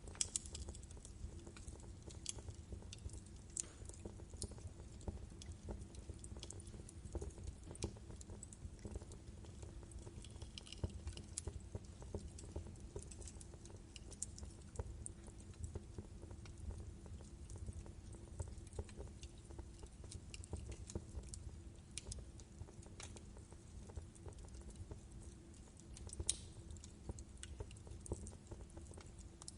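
Logs burning in a fireplace, crackling with irregular sharp pops and snaps over a low, steady rumble of the fire.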